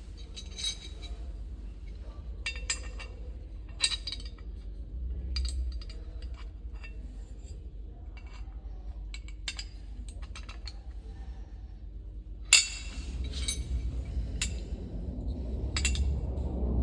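Light metallic clinks and clicks of cargo-control hardware, such as E-track fittings and strap hardware, being handled and latched. The clicks are scattered, with a louder clack about twelve and a half seconds in, over a low steady hum.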